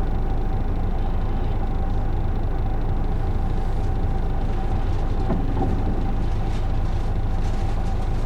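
Isuzu Erga city bus heard from inside, its diesel engine running steadily as the bus drives along, with a low drone and a constant whine above it.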